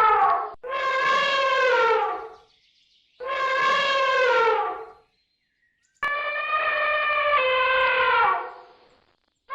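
A series of long, drawn-out animal calls, each about two seconds, holding a steady pitch and then sliding down at the end, with short pauses between them.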